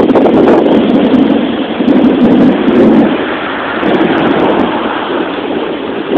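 Strong gusty wind buffeting the microphone, a loud rough rushing that eases a little after about three seconds.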